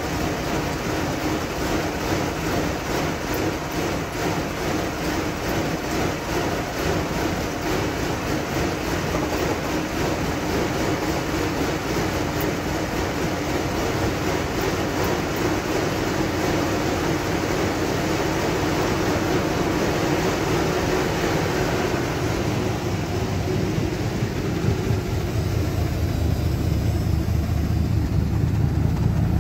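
1982 Ford Mustang GT's 5.0-litre V8 idling while warming up after a cold start, with a fast, light ticking over the steady running. From about two-thirds of the way in, the deeper exhaust note from the tailpipes takes over and grows louder toward the end.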